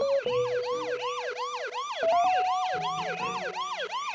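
A quick, even electronic warble of rising-and-falling whistled sweeps, about three a second, over held steady tones that step up in pitch about two seconds in.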